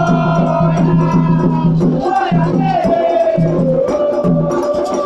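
Candomblé ritual music: atabaque hand drums beating a steady repeating rhythm under voices singing a chant for Oyá.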